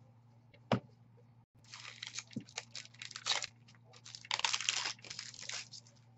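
A trading card pack's plastic-foil wrapper being torn open and crinkled by hand, in two crackling stretches of a second or more each, after a single sharp click.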